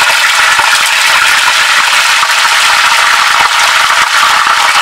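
Marinated fish pieces frying in hot mustard oil in a pan: loud, steady sizzling and crackling as the oil bubbles hard around the coated pieces.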